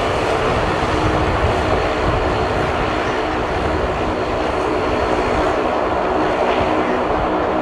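De Havilland Dash 8 turboprop engines and propellers running loudly and steadily, with a constant propeller hum over a broad engine and air noise.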